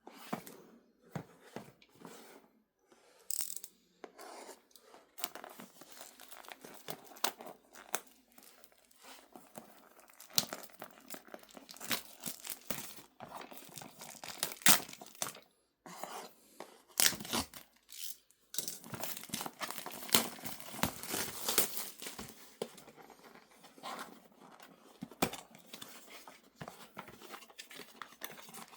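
Product packaging being opened by hand: irregular tearing and crinkling of paper and plastic, broken by sharp clicks and knocks as parts are handled.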